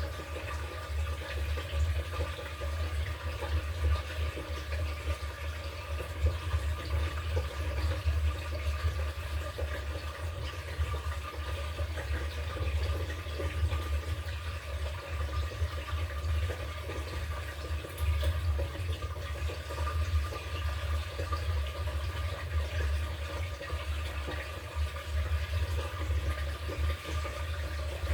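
Water running and sloshing in the tub of an LG top-loading washing machine, steady and unbroken, with a low hum underneath.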